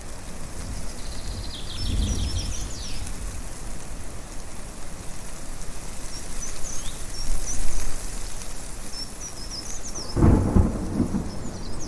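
Thunder rumbling twice, a soft roll about two seconds in and a louder one near the end, over a steady rushing background. Birds chirp and trill high above.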